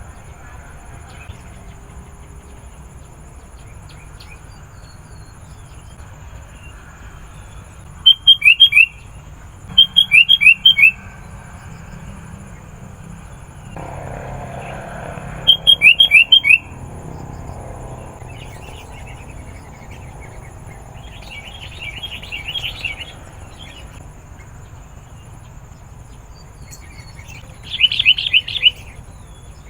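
Sooty-headed bulbul calling in short bursts of quick, downward-slurred chirps: four loud bursts, at about 8, 10, 16 and 28 seconds in, with a fainter run of chirps around 22 seconds.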